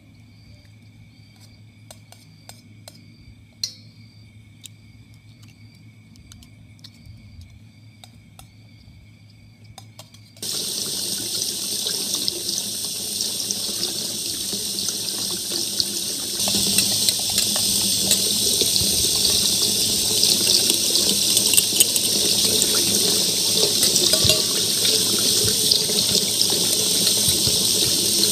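Kitchen tap running into a metal bowl, a steady splashing rush that starts suddenly about a third of the way in and gets louder a few seconds later. Before the water starts, a quiet spell with a faint, regularly repeated chirping.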